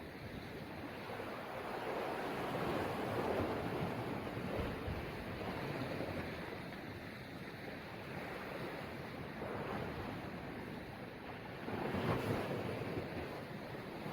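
Sea waves surging and washing, the noise swelling and easing, with louder surges a few seconds in and again near the end, and wind buffeting the microphone.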